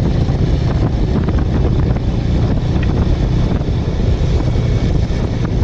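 Heavy, steady wind rumble on the microphone of a moving motorcycle, with the Bajaj Avenger's single-cylinder engine running beneath it at riding speed.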